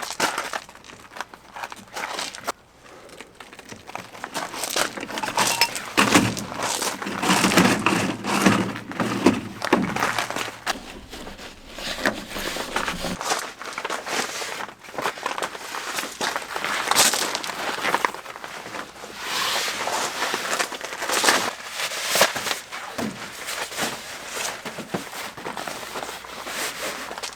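Crinkling and rustling handling noise with many scattered clicks and knocks.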